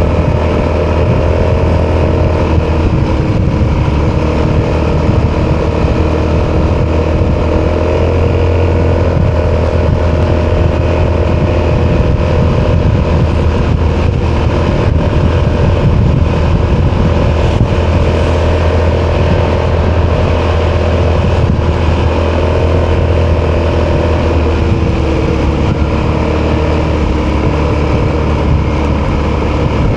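Italjet Dragster 200's single-cylinder four-stroke DOHC engine running through an Akrapovic exhaust while riding. The engine note rises and falls a little as the speed changes.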